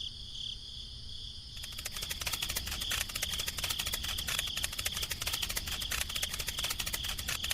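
Crickets chirping in a steady pulsing rhythm, about three chirps a second. About a second and a half in, a dense, fast clicking rattle starts and keeps going.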